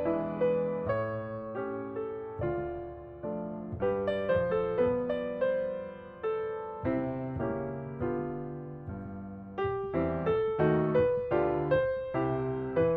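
Background piano music: a slow melody of struck notes that ring and fade, over lower bass notes.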